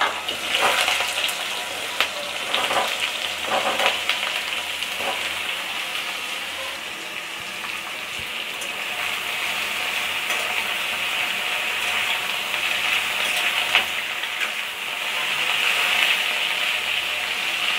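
Chopped ridge gourd sizzling steadily in hot oil in a metal kadai, with the scrapes and knocks of a metal spatula against the pan as it is stirred.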